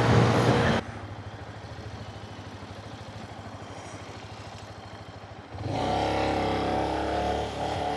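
Benelli BN125's small single-cylinder engine running: quiet and evenly pulsing at low revs, then it gets louder and steadier a little over halfway through.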